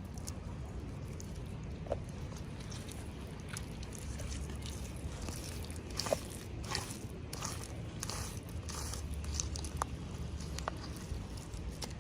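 Hands handling and opening toy packaging: scattered soft crinkles and small clicks, busier in the second half, over a low steady hum.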